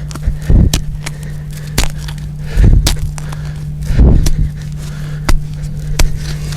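Kizlyar Buran hatchet chopping and digging into frozen ground: irregular blows, three heavy dull thuds among sharper, lighter strikes and scrapes.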